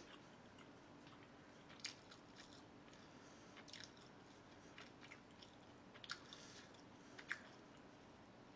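Faint close-up chewing: a person eating, with a few soft, irregularly spaced clicks and smacks of the mouth.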